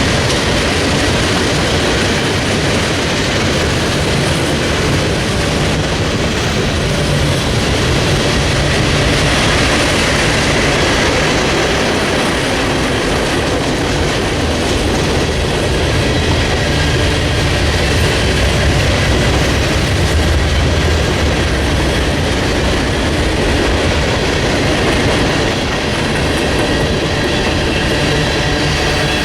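A train rolling steadily past: the rumble of railcars with wheels clicking over the rail joints and faint wheel squeal.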